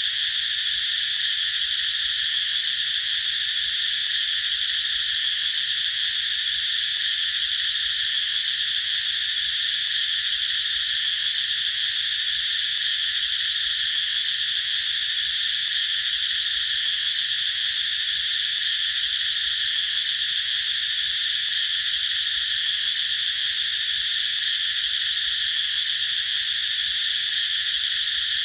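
A chorus of cicadas singing in one continuous, steady, high-pitched drone.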